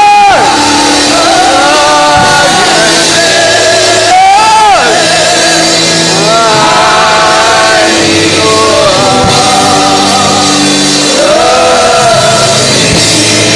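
Gospel hymn singing by voices over instrumental accompaniment, with long held notes.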